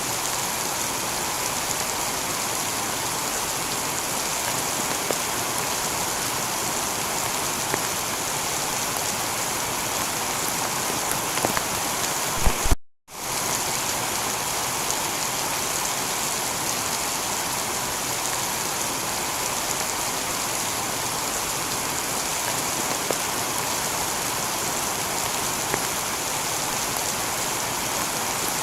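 Steady heavy rain falling on a tiled roof, with a few sharper drops. About halfway through the sound cuts out completely for a moment and fades back in.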